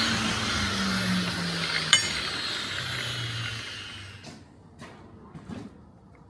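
A power tool's motor winding down after being switched off: its whirring hiss and hum fall in pitch and fade away over about four seconds, with a sharp metallic click about two seconds in. A few light metal clinks follow near the end.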